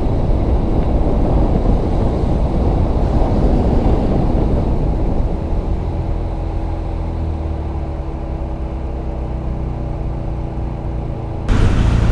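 Car being driven: engine and road noise as a steady low rumble. About five seconds in it eases to a steady engine hum, then it turns abruptly louder near the end.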